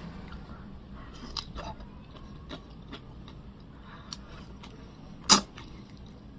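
A person eating marinated beef ribs and kimchi with chopsticks: quiet chewing and scattered small mouth and chopstick clicks, with one sharper click about five seconds in.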